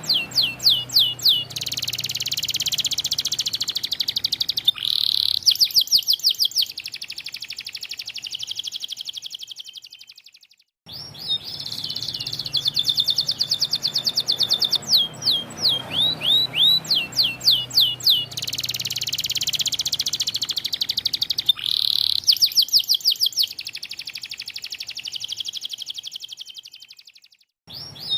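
White domestic canary singing a long, loud song of rapid trills and runs of repeated down-slurred whistles. The song breaks off abruptly twice, about eleven seconds in and near the end, each time picking straight up again.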